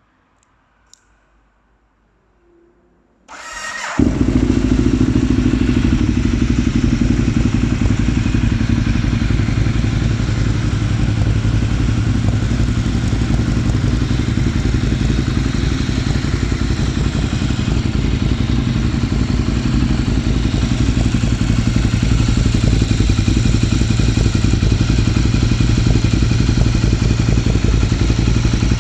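Ducati Monster 1200S's 1198 cc L-twin engine started from cold: a short crank of the starter about three seconds in, then it catches and settles into a steady idle.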